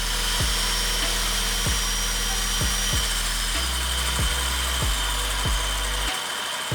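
Electric hand grinder running steadily with a high whine, under background music with an electronic kick-drum beat.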